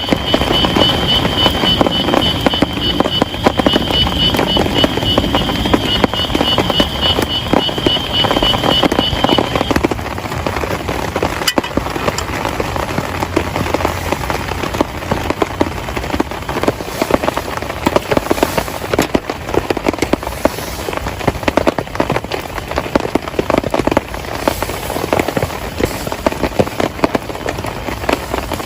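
Heavy rain pattering densely, a crackling patter of countless drops. For the first ten seconds or so a high, rapidly pulsing trill sounds over it, then stops.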